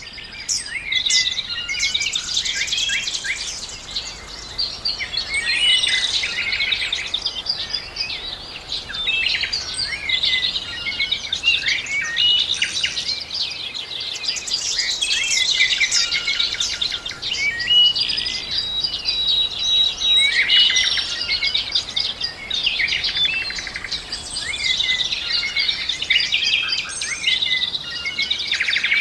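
Many birds chirping and singing at once: a dense, unbroken chorus of overlapping high chirps, trills and short whistles.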